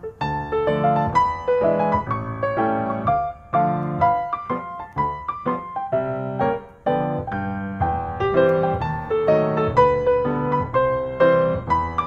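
Background piano music: a steady run of struck notes, one after another.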